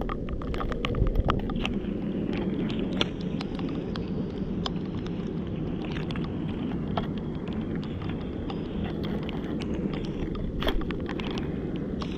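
Wind buffeting the microphone, a steady low rumble, with scattered sharp clicks and taps throughout.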